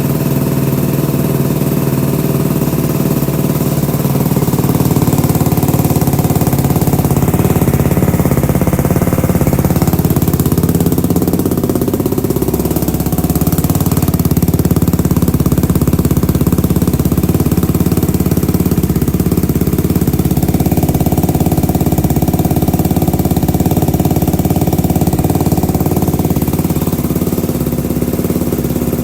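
Ducati Hypermono motorcycle engine idling steadily just after a cold start, getting slightly louder about four seconds in.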